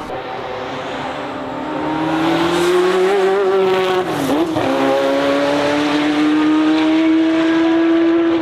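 Race car engine running hard under acceleration, its pitch rising over the first few seconds. About four seconds in, the note dips sharply and recovers at a lower pitch as it shifts gear, then climbs steadily again.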